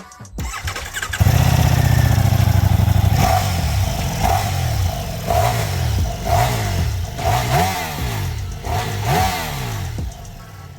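Superbike engine and exhaust coming in loud and steady about a second in, then revved again and again, its pitch rising and falling about once a second with each throttle blip.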